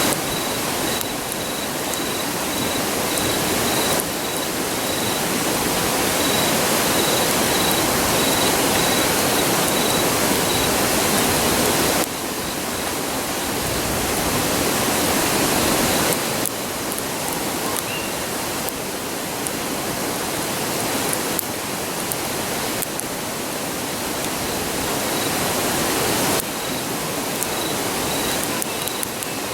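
Steady rushing of a river, with faint crackles and pops from a wood campfire.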